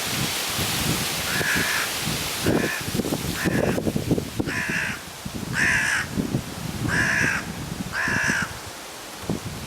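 A crow cawing seven times in a series over wind. The first three caws are short and fainter, and the last four are longer and louder. Gusts of wind rumble across the microphone, with a hiss of wind early on.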